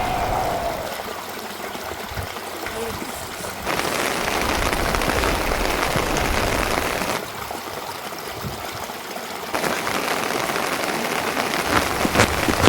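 Rain falling steadily, its hiss stepping abruptly louder and quieter a few times; near the end, separate large drops patter close by.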